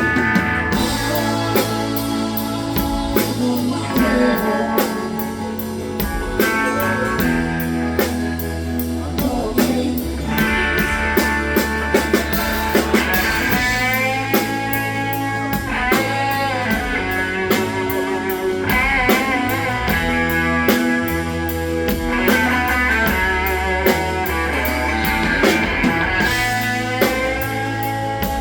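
Rock band playing an instrumental break without vocals: a lead guitar solo with bent, wavering notes over steady drums.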